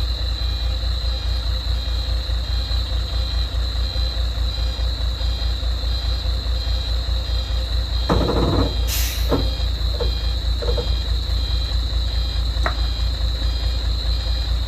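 Heavy diesel vehicle engine idling, a steady pulsing rumble with a thin steady high whine. A brief hiss comes about nine seconds in, among a few short knocks.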